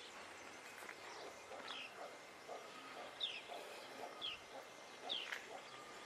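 Birds chirping faintly: short falling notes, about one a second, over a low outdoor hiss.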